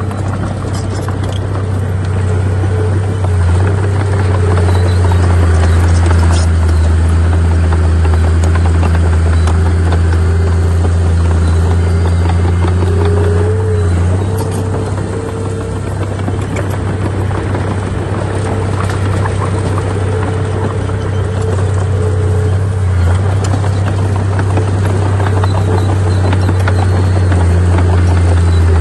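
Heavy earthmoving machine's diesel engine running steadily under load, a deep continuous hum with a fainter steady whine above it. It eases off briefly about halfway through, then picks up again.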